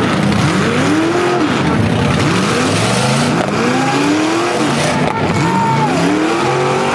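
Several full-size demolition derby cars' engines revving up and dropping back again and again, their pitches overlapping and rising and falling about once a second.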